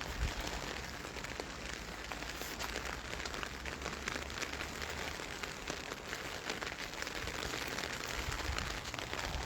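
Steady rain falling, a constant patter of many small drops ticking.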